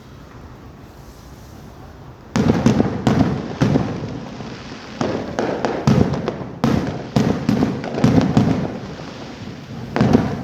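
Aerial fireworks display going off. After about two seconds of low background it breaks into a dense, irregular string of loud bangs and crackles that carries on to the end.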